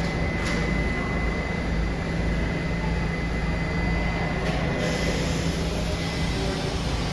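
New York City subway train in the station: a steady rumble and hum with a thin high whine running through it, and two sharp clicks, one just after the start and one about four and a half seconds in.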